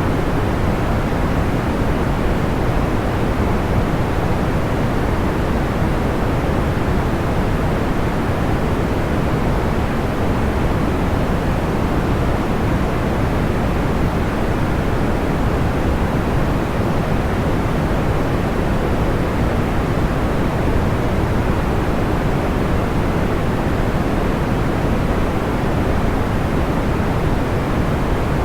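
Steady white-noise track weighted toward the low end, like pink or brown noise: an even, unchanging hiss with no crackles or pops.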